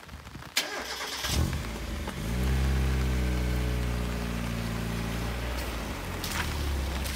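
Mazda Roadster's four-cylinder engine being started: a sharp clunk and a thump, then the engine catches about two seconds in and runs at a raised, steady idle, which drops lower and quieter about five and a half seconds in. Another short sharp noise comes near the end.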